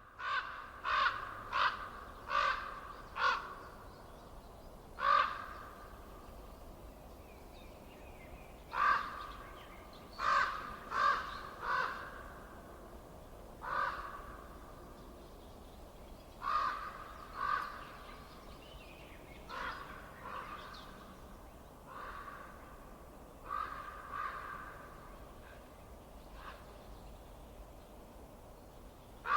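A bird calling: short repeated calls of about a third of a second each, often in quick runs of two to four with pauses between, over a faint steady background hiss.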